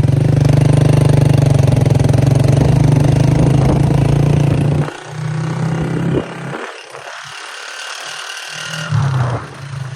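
Motorcycle engine running steadily, then dropping away about halfway through and coming back only in short spells.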